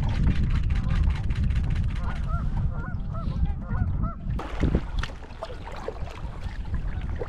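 Waterfowl honking: a quick run of short, arched honks about two seconds in, lasting a couple of seconds. Wind rumbles on the microphone throughout.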